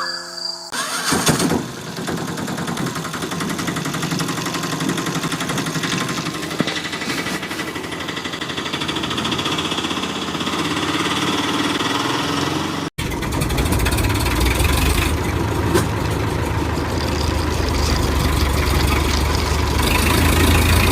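A motor vehicle engine running steadily. About two-thirds of the way in it cuts off abruptly and gives way to a deeper, heavier engine sound.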